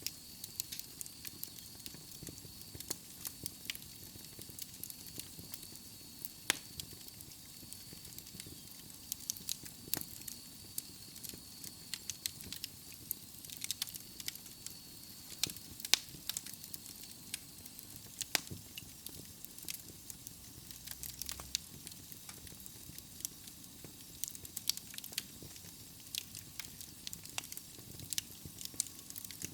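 Wood logs burning in a fireplace: a steady soft hiss with frequent sharp crackles and pops, a few of them much louder than the rest. A faint high whistle runs through the first half, then fades.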